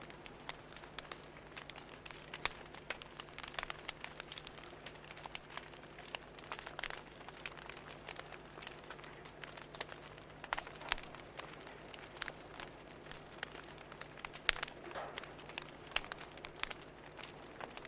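Fire crackling: irregular snaps and pops, some sharper and louder than others, over a faint steady hum.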